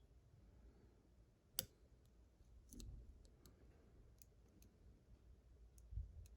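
Faint, scattered clicks of a lock pick and tension tool working the pins of a Kryptonite padlock, with one sharper click about one and a half seconds in.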